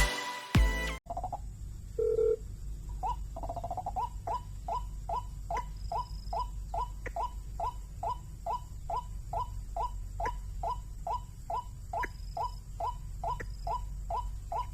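White-breasted waterhen calling: a short, monotonous note repeated about three times a second, over a low steady rumble. Electronic music cuts off about a second in, before the calls start.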